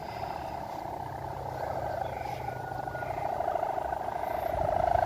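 A kite hummer on a large kite droning in the wind, a fluttering buzz that grows louder, over low wind rumble on the microphone.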